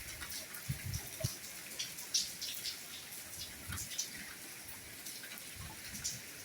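Soft rain falling: a steady hiss with many scattered individual drops ticking close by and a few faint low thuds.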